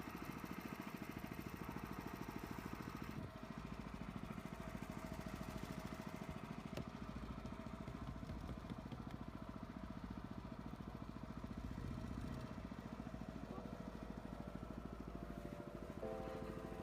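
A houseboat's engine running steadily with a fast, even chugging pulse. Music comes in near the end.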